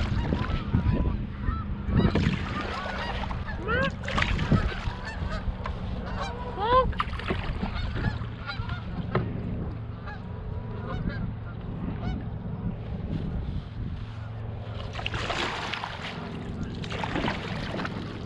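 Geese honking: a string of short, rising calls, thickest in the first half, over a steady low hum. Near the end come two bursts of rushing noise.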